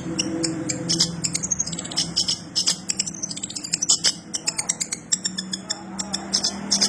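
Long-tailed shrike singing a rapid, unbroken run of short, high chirps and twitters, its song filled with mimicked Eurasian tree sparrow calls.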